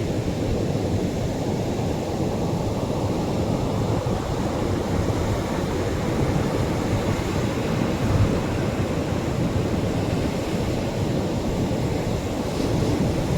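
Atlantic Ocean surf breaking and washing on the shore, a steady low rumble of waves without distinct single crashes, swelling slightly near the end.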